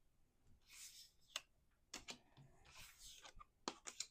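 Faint handling of a Lenormand card deck: a couple of soft card slides and a few light taps and clicks as cards are laid on a table.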